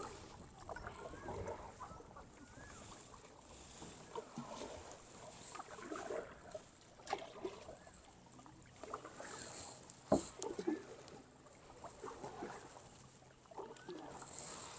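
Kayak paddling: paddle blades dipping and pulling through water with irregular splashes and drips, and a single sharp knock about ten seconds in.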